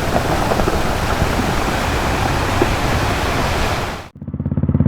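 A loud, steady rush of noise that cuts off abruptly about four seconds in. Then the Royal Enfield Classic 350's single-cylinder engine fades in, idling with an even, rapid thump through its Red Rooster exhaust.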